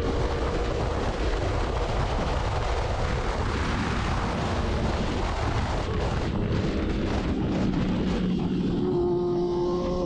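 Kawasaki Ninja 300's parallel-twin engine running at speed under heavy wind rush on the microphone; a steady engine note comes through near the end.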